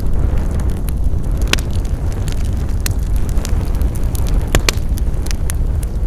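Wood fire burning with a steady low roar and scattered sharp crackles and pops, a few louder snaps among them.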